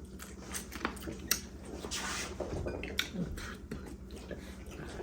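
Eating sounds at a seafood boil: chewing and wet, squishy mouth noises, with scattered sharp clicks and crackles as seafood and shells are handled, and a brief voice sound about three seconds in.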